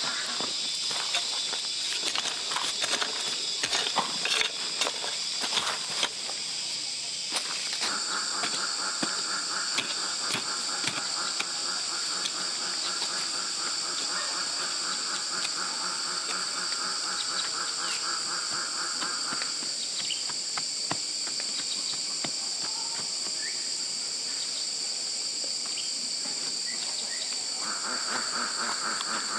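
Insects chirping in a steady, high, continuous chorus. A second, lower pulsing chirp sets in about a quarter of the way through, drops out past the middle and returns near the end. Irregular clicks and knocks sound over the chorus in the opening seconds.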